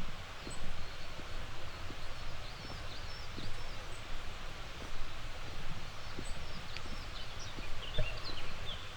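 Steady walking footsteps on a path, a soft thump roughly every three-quarters of a second, under small birds chirping in short high notes that grow busier near the end. A steady low outdoor rumble runs beneath.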